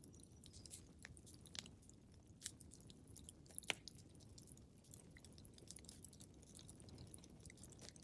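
Wood fire crackling in a fireplace: irregular sharp pops and snaps over a soft low rumble of the flames, the loudest pop a little under four seconds in.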